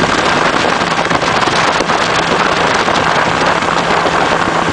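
Motorboat under way: a loud, steady rush of water and spray over the low, steady hum of its engine.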